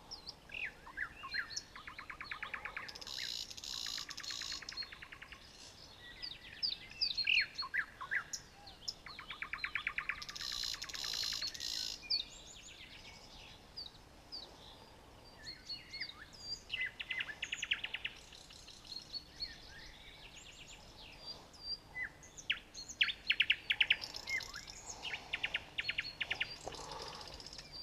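Several songbirds singing and chirping, rapid trills and short chirps overlapping one another.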